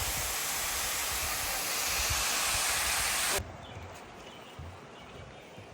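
Waterfall rushing as a loud, steady roar that cuts off suddenly about three and a half seconds in, leaving a much quieter background with a few faint knocks.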